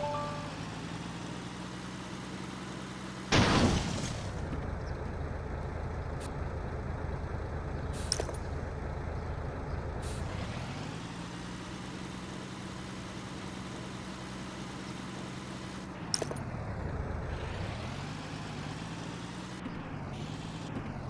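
A vehicle engine sound runs steadily, its pitch dipping and rising again a few times. A loud hiss, like an air brake releasing, comes about three seconds in.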